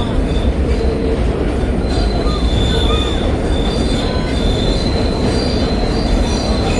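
New York City subway train running on the rails with a loud steady rumble, its wheels squealing in high thin tones that come and go from about two seconds in.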